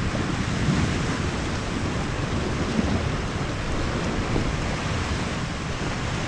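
Sea surf washing against rocks, mixed with wind buffeting the microphone: a steady rushing noise with a low rumble.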